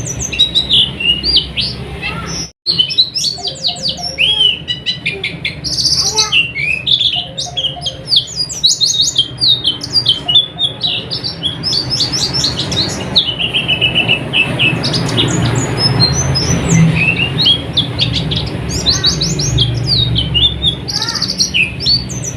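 White-eye (pleci) song: a dense, fast stream of high twittering chirps and short trills. The sound drops out for a split second about two and a half seconds in, and a low hum runs underneath.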